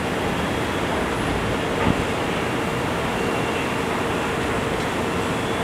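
A CTA 'L' train of Budd 2600-series and Morrison-Knudsen 3200-series cars running away over the tracks: a steady rail rumble with a faint steady tone.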